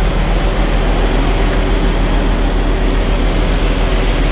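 Steady, loud vehicle rumble and noise with a strong low hum underneath, unchanging throughout.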